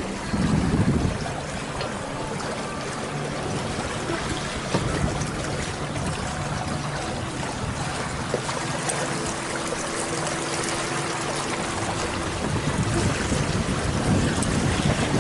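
Water rushing and splashing past the hulls of a sailing catamaran under way, with wind buffeting the microphone in gusts about half a second in and again near the end.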